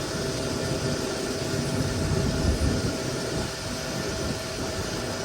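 A motor vehicle running: a steady low rumble with hiss and a faint constant whine.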